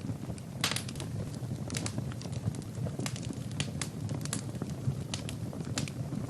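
Wood fire burning in a fireplace: a low, steady rush of flame with irregular sharp crackles and pops from the burning logs, several coming close together about a second in.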